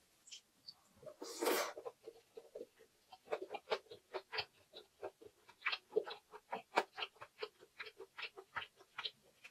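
Close-miked chewing of a mouthful of anchovy and egg fried rice: a run of small wet clicks and smacks at about four a second, with a short breathy rush of noise about a second and a half in.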